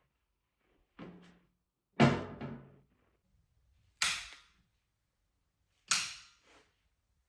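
Household handling sounds: four separate knocks about two seconds apart, the loudest about two seconds in with a second, softer knock right after it.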